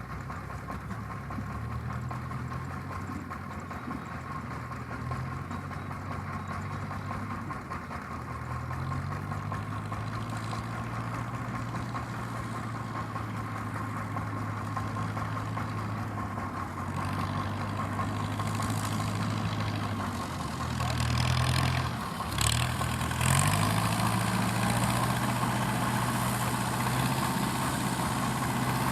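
FIAT 640 tractor's diesel engine running steadily under the load of a straw-rolling baler. About three quarters of the way through, its note dips briefly and then picks back up, with louder mechanical clatter.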